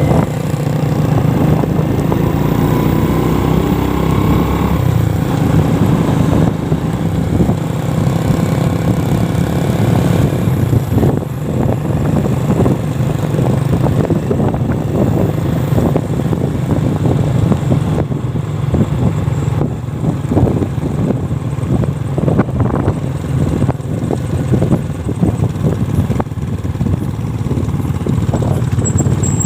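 A small engine running steadily at an even speed, with scattered short knocks and rustles over it from about ten seconds in.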